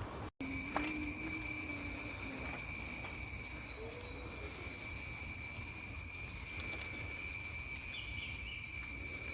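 A steady, high-pitched insect chorus in tropical forest, a continuous shrill drone in two pitch bands that sets in abruptly about a third of a second in.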